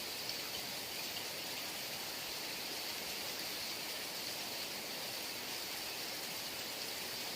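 Steady heavy rain falling, an even rushing hiss with no let-up.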